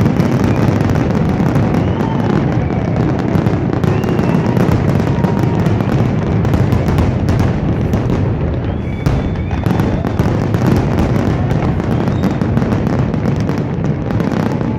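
Fireworks finale: a dense, continuous barrage of booming and crackling bursts that run together without a break, with a few brief high whistles about nine seconds in.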